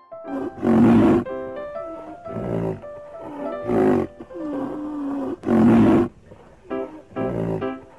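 Rhinoceros calls played as the animal's sound: a series of rough, deep calls, the two loudest about a second in and again near six seconds, with shorter ones between, over light piano music.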